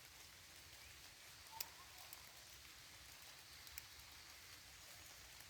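Faint steady rain falling in a forest, with scattered drops ticking and one sharper drip about a second and a half in.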